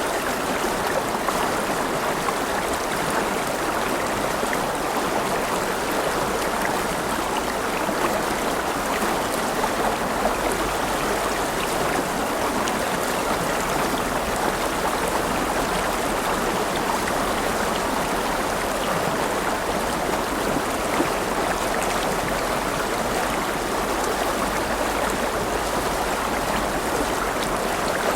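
River water flowing over rocks, a steady, even rush of running water.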